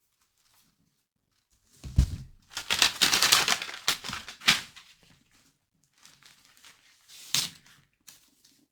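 Wrapping paper crinkling and rustling as a gift is handled and unwrapped, starting after a short pause with a thump about two seconds in, then a few seconds of dense crackling and a few lighter rustles near the end.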